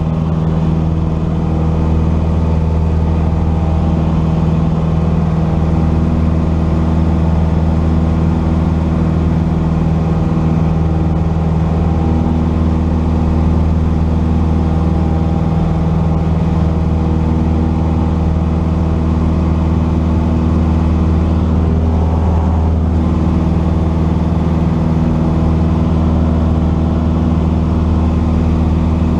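Cessna 172's piston engine and propeller running steadily, a loud, even drone with a slight change in tone a little past two-thirds of the way through.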